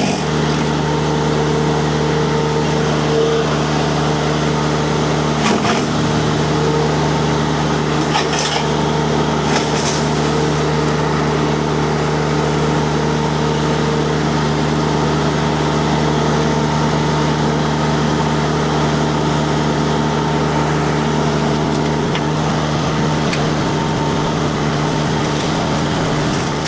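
Mini skid steer's diesel engine and hydraulics running hard with the disc mulcher spinning, a steady drone with a few short sharp cracks of wood being chipped about five, eight and ten seconds in.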